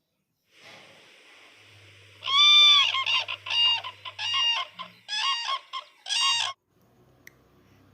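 A crane calling: a run of about six loud, pitched calls, the first the longest, over a faint recording hiss.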